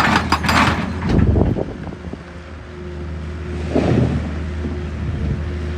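A steady low engine hum, with a few brief louder noises over it.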